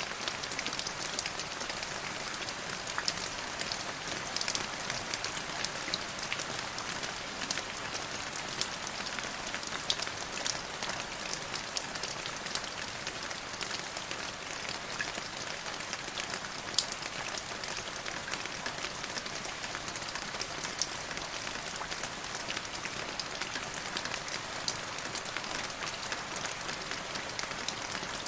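Steady rain falling: an even hiss dotted with many small, sharp drop impacts.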